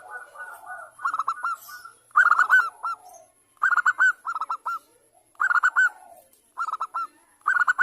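Zebra dove (perkutut) singing: about six short bursts of rapid cooing notes, each burst a quick run of clipped notes with brief pauses between bursts.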